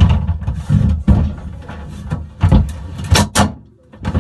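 A series of knocks and bumps, several sharp thuds about half a second to a second apart, with a brief lull near the end.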